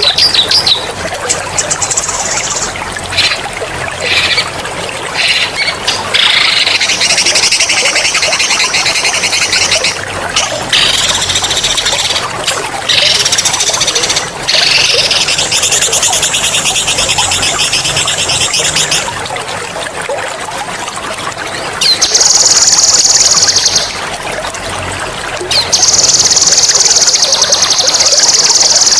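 A songbird singing long, fast rolling trills (ngerol) in several bursts of a few seconds each, over steadily trickling water. Near the end come two louder, high, buzzing trills of about two and three seconds.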